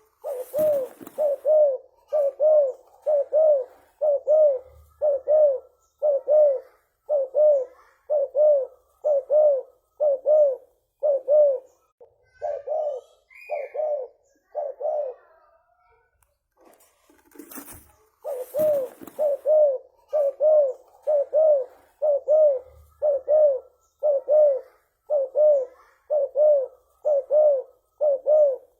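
Spotted dove cooing in a long, fast series of repeated coos, about two a second. This is the loud, frequent 'gacor' cooing that bird-keepers prize. The run breaks off about halfway, then starts again after a brief crackle.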